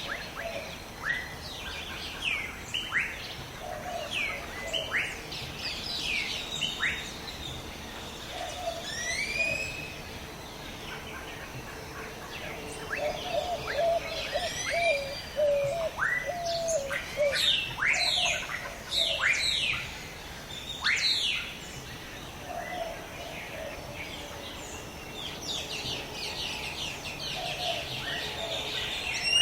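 A chorus of wild birds calling: many short, quickly sweeping chirps and whistles, with a lower warbling phrase repeated at intervals, over a faint steady background hiss.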